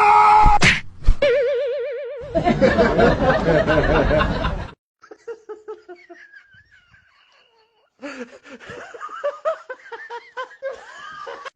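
Laughter in several bursts, loud at first and fainter in the middle. A brief warbling tone wavers up and down about a second in.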